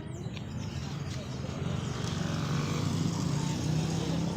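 An engine running close by, its low hum getting louder over the last couple of seconds, amid background voices.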